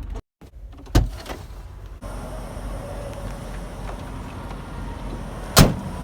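Steady low rumble of an idling truck, with a thump about a second in and a louder, sharp thump near the end.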